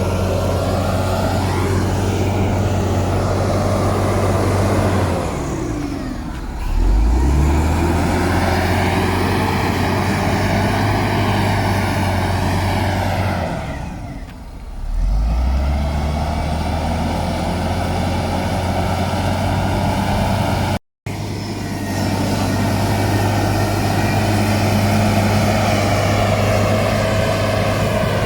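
Heavy diesel engine of earthmoving machinery running hard under load. It twice eases off and then revs back up. There is a brief complete break in the sound about three-quarters of the way through.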